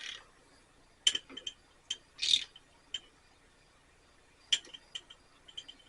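Scattered sharp clicks and light knocks of small hard objects being handled, with one brief scraping rasp a little over two seconds in.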